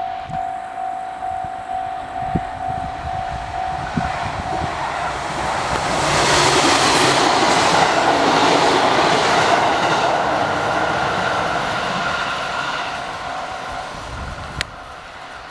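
A JR 701 series electric train passing over the river bridge. Its rumble and wheel clatter build to a peak about six to ten seconds in, then fade as it moves away.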